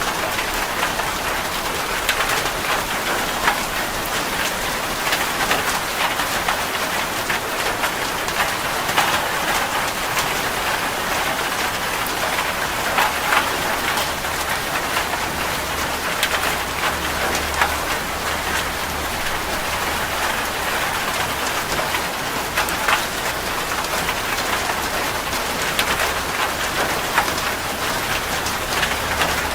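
Steady rain falling on a surface, a constant hiss dotted with many individual drop splashes.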